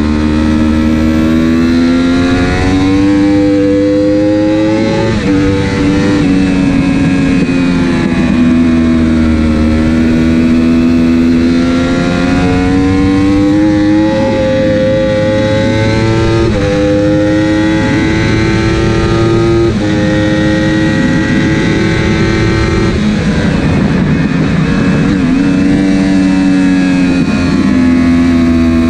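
Superbike engine at race pace, heard onboard. The pitch climbs through the gears and drops sharply at each upshift, which is made with the clutch because there is no quickshifter, and it falls away more gradually where the bike slows for corners.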